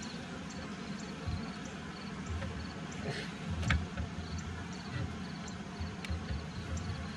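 Honeybees buzzing in a steady hum around an opened horizontal hive, with a faint high insect chirp repeating about twice a second. A sharp click sounds once, about three and a half seconds in.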